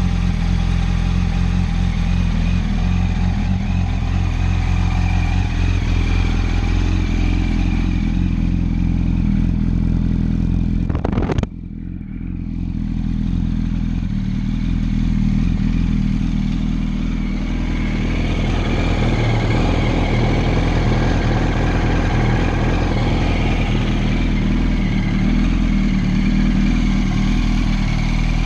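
2007 Yamaha R1's inline-four engine idling steadily through a Leo Vince titanium carbon aftermarket exhaust. About eleven seconds in there is one sharp click and the sound briefly drops, then builds back.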